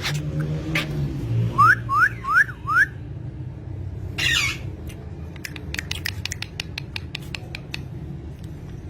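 A bird whistling four quick rising notes, then giving one short harsh call, followed by a rapid run of sharp clicks.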